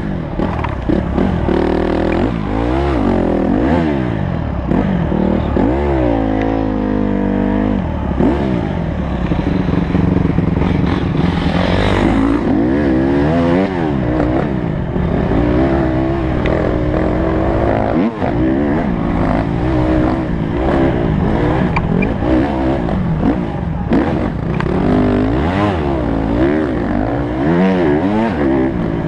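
Honda CRF150 four-stroke single-cylinder motocross engine revving up and down under riding, its pitch climbing and dropping again and again with throttle and gear changes.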